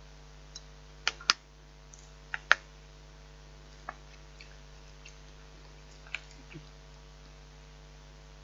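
A utensil stirring pasta in a microwave-meal tray: scattered sharp clicks and taps against the tray, the loudest few in the first three seconds, then sparser.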